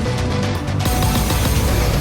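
Online slot game music: dense and bass-heavy, growing brighter just under a second in.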